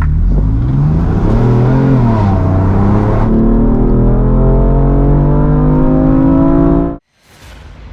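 BMW M4 Competition's 3.0-litre twin-turbo inline-six engine accelerating hard: the engine note rises, dips, then climbs steadily for about four seconds before cutting off suddenly near the end.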